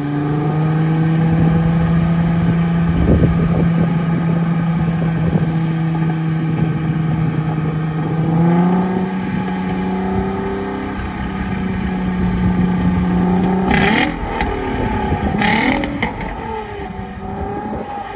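2008 Acura TL Type-S 3.5-litre V6 running at a steady raised speed while Seafoam burns off through it. The revs step up a little about eight seconds in, then drop and waver near the end, with two short bursts of noise close together.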